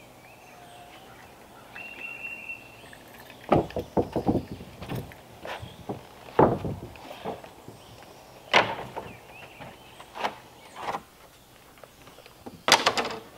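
Wooden decking boards knocking and clattering as they are handled and laid down: a string of irregular sharp wooden knocks, some in quick clusters.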